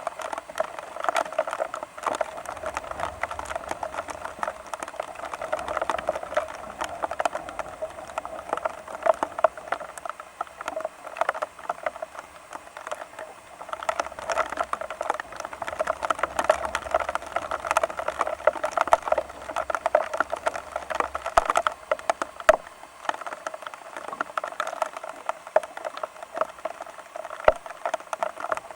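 Rain pattering steadily, a dense run of small irregular drop hits.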